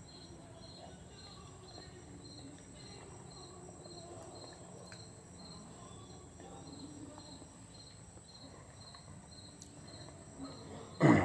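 A faint cricket chirping steadily, about two chirps a second. A short louder sound comes right at the end.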